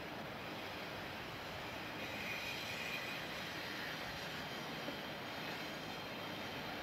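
Steady, even rumble and hiss of idling railroad equipment at a passenger station platform.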